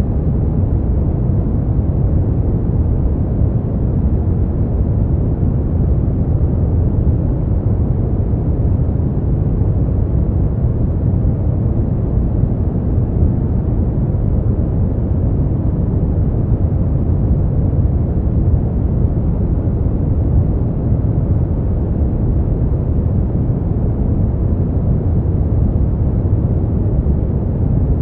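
Steady noise for sleep: an even, unchanging hiss weighted toward the low end, so it sounds deep and rumbling rather than bright.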